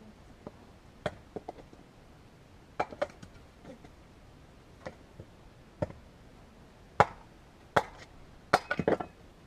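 Firewood knocking and cracking: a series of irregular sharp wooden strikes, the loudest about seven seconds in and a quick cluster near the end.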